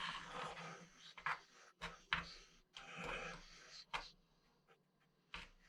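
Faint scraping and a few light, scattered clicks of a sharpened blade working the metal pins off a computer motherboard.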